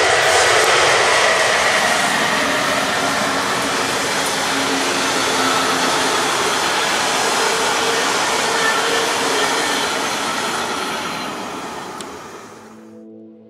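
SNCB class 18 electric locomotive hauling a rake of double-deck coaches passing by: a steady rush of wheels on rail, loudest at the start, fading away over the last couple of seconds and cutting off near the end.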